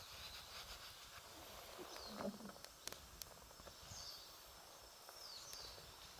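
Wood campfire crackling faintly, with a couple of sharp pops about three seconds in. A few short descending bird calls sound in the background.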